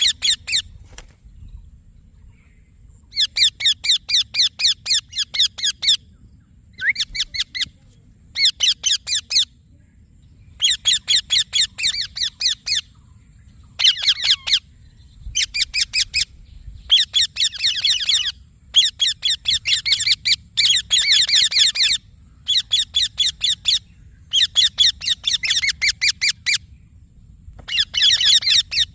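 Rose-ringed parakeet (Indian ringneck parrot) calling in rapid runs of shrill, high chirps, about five a second, in bouts of one to three seconds separated by short pauses.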